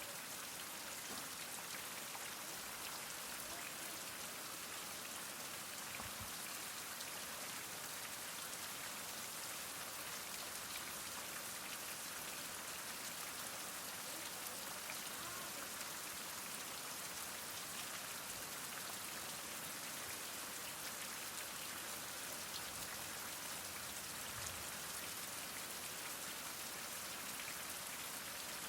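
Heavy rain falling steadily: an even hiss of many drops with no let-up.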